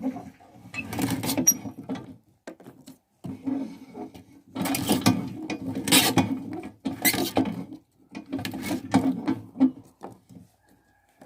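Dried, dug-up roots being cut into smaller pieces, crunching and cracking in several irregular bursts.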